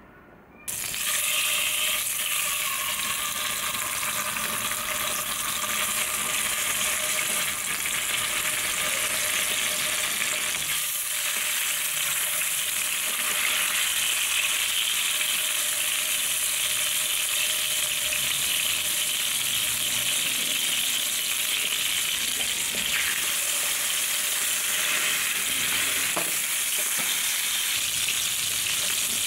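Salmon fillets frying in hot cooking oil in a frying pan, a steady sizzle that starts suddenly about a second in.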